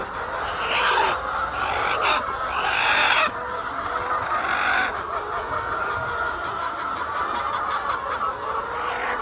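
A flock of laying hens clucking, many calls overlapping. Several louder calls stand out in the first few seconds and again about five seconds in.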